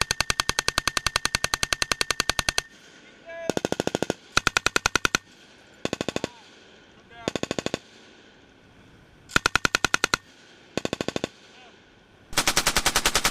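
Belt-fed machine gun firing in bursts, about twelve shots a second: one long burst of about three seconds, then a string of short bursts with brief pauses between them.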